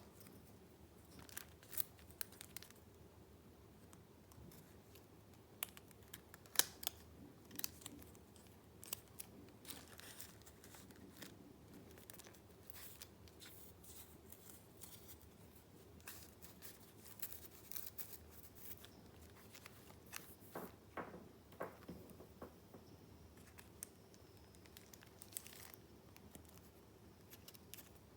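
Paper being handled close up for a junk journal: scattered crisp clicks, rustles and crinkles, the loudest about six to seven seconds in.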